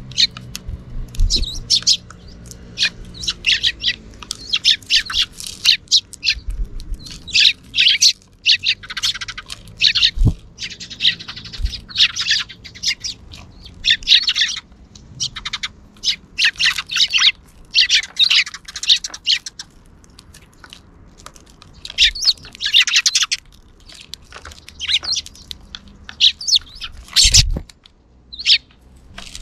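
A flock of sparrows chirping, many short overlapping chirps coming in irregular clusters. Two dull thumps cut in, one about a third of the way in and one near the end.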